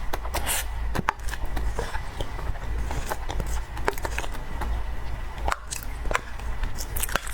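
Close-miked eating of cake: scattered soft clicks and mouth sounds of chewing, over a steady low hum.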